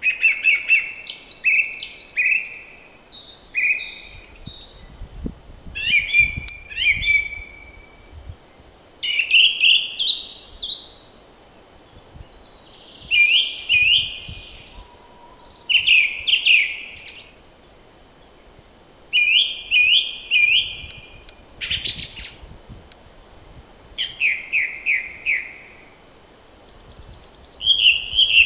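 Songbirds singing in short phrases of quick, falling chirps, a new phrase every two or three seconds. There is a faint low rumble of wind a few seconds in.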